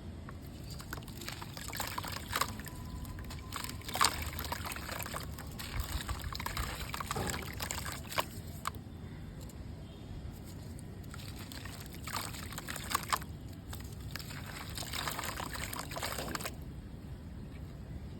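Gritty red mud crumbling in water, with wet crackling and trickling in three spells of a few seconds each and a few sharp clicks.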